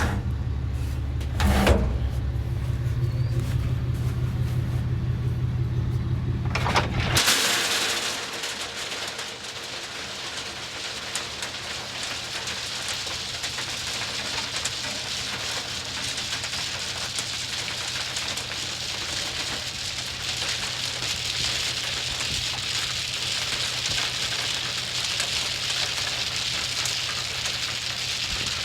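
A truck engine runs steadily for about seven seconds and then cuts off suddenly. After that comes a steady hiss of sleet falling and pattering, with many fine ticks.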